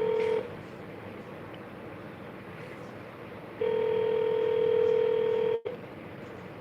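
Telephone ringback tone of an outgoing call: the end of one ring, then after about three seconds a second ring of about two seconds that cuts off abruptly. The call is ringing out, not yet answered.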